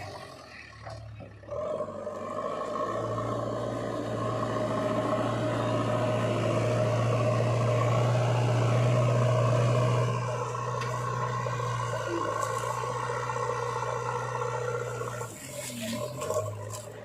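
Heavy diesel engine running steadily under work, getting louder for several seconds and then easing off about ten seconds in, with some clatter near the end.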